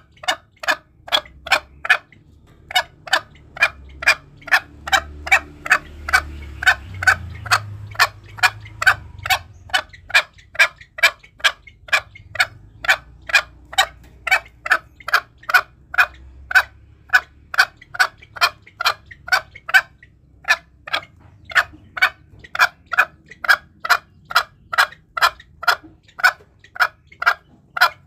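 Green junglefowl calling in a long, rapid series of short clucks, about two to three a second, with brief pauses about two seconds in and again near twenty seconds in.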